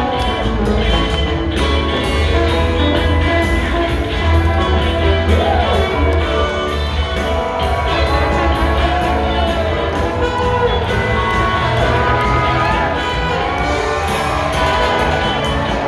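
Rock band playing live, with sustained guitar and keyboard lines over bass and a steady drum beat.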